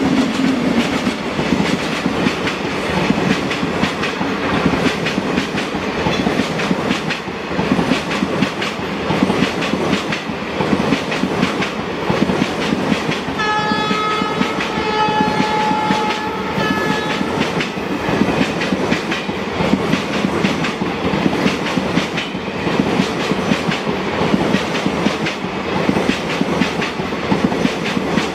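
Passenger coaches of an express train rolling past close by, the wheels clattering steadily over the rail joints. Midway a train horn sounds for about three seconds.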